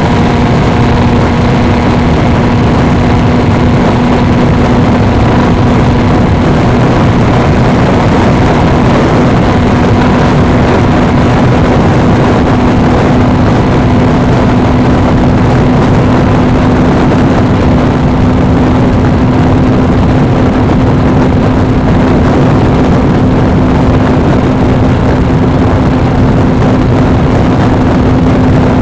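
Suzuki V-Strom 250's parallel-twin engine running at a steady cruise under a constant rush of wind and road noise, loud and unbroken. The engine note holds almost level, edging a little higher in the later part.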